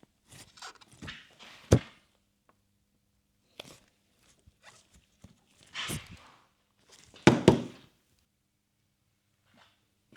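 Scattered knocks and handling clatter: a sharp knock about two seconds in and two longer, louder clatters around six and seven seconds in.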